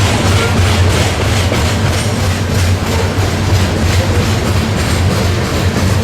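A train rolling past close by, a steady loud rumble of railcars with the rhythmic clickety-clack of wheels over rail joints.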